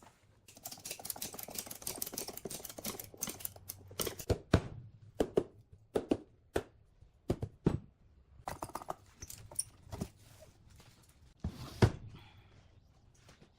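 Hand tools working wood: a few seconds of fast, rasping clicks, then about a dozen sharp knocks spaced irregularly, half a second to a second and a half apart. The loudest knock comes near the end.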